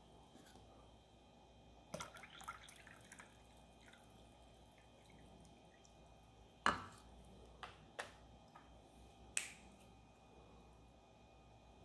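A few scattered sharp clicks and taps, about six in all, the loudest a little under seven seconds in, over a faint steady hiss.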